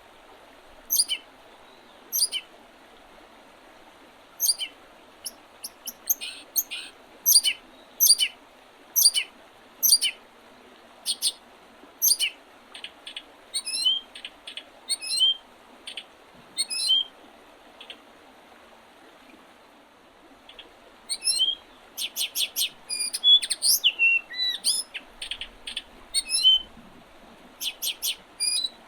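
Songbirds calling and singing in short, sharp notes, sparse at first and coming thick and fast after about twenty seconds, over a steady faint rushing background.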